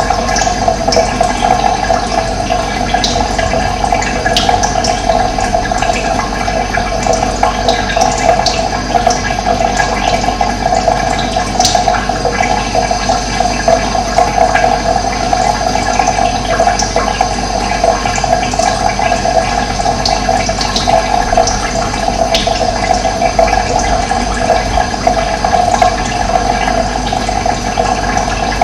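Flowing water rushing steadily, with scattered short high bird chirps now and then.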